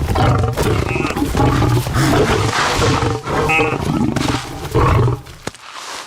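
Lions growling, a run of loud, rough growls one after another that stop near the end.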